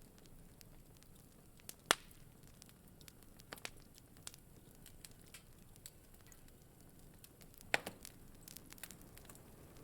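Wood fire crackling in a fireplace: irregular sharp pops over a faint steady hiss, with a loud pop about two seconds in and another near eight seconds.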